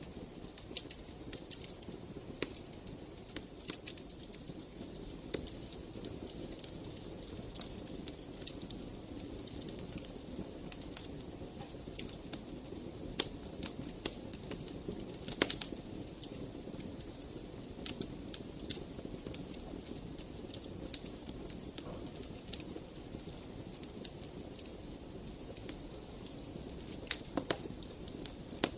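Wood fire in a fireplace crackling, with frequent irregular sharp pops and snaps over a low steady rush of burning.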